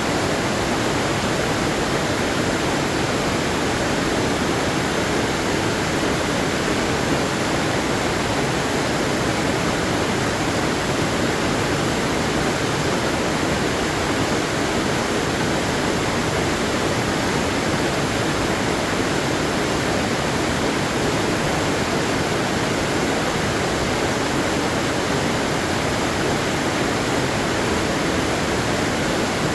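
Waterfall rushing steadily, an even, unbroken hiss of falling water with no changes.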